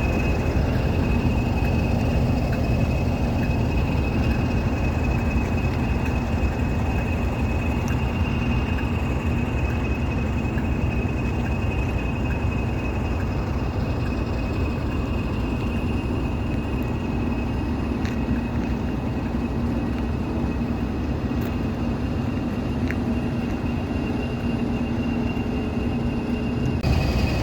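Diesel locomotive engines running, a steady low rumble with a steady high whistle over it; the sound shifts a little about a second before the end.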